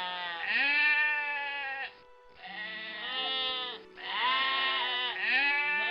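Goat bleating: a run of long, wavering bleats with short breaks between them, over soft background music.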